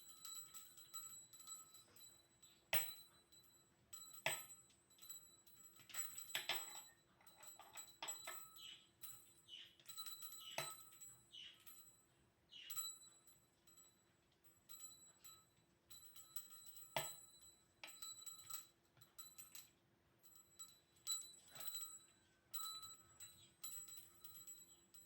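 A small bell jingling in irregular bursts, mixed with light clicks and taps, over a faint steady hum.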